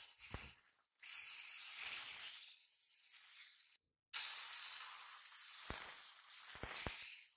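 Hissing spray, like compressed air or a spray tool, running in stretches that cut off abruptly, with a few short low thuds.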